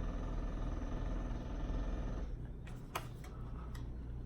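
A steady hum that cuts off about two seconds in, followed by a few light clicks and taps.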